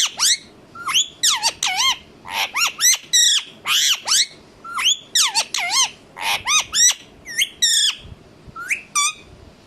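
Indian ringneck parrot giving a rapid run of short, shrill squawking calls, several a second, which thin out over the last couple of seconds.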